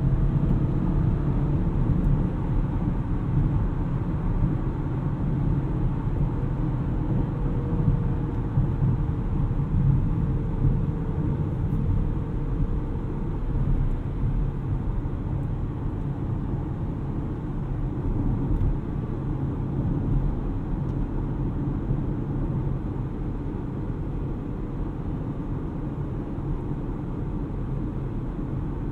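Audi RS6 Avant's twin-turbo V8 and road noise heard from inside the cabin while driving: a steady low rumble, easing slightly over the second half.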